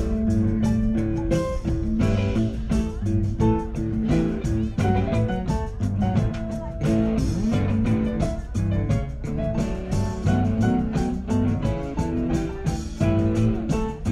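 Live rock band playing an instrumental passage, guitar to the fore over bass and drums.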